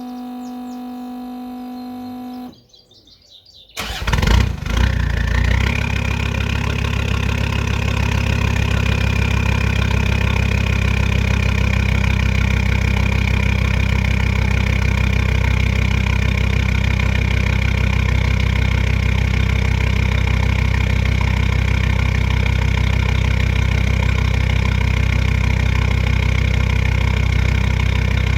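Brief background music, then a Land Rover Discovery 2 TD5's 2.5-litre five-cylinder turbodiesel, straight-piped, cold-started: it catches with a few loud uneven bursts about four seconds in and settles into a loud, steady idle. A high steady whine rises in just after it catches and holds.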